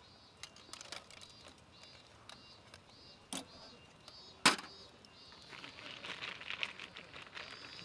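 Handling noises: scattered light clicks and clinks, two sharper knocks about three and four and a half seconds in, and a stretch of rustling near the end.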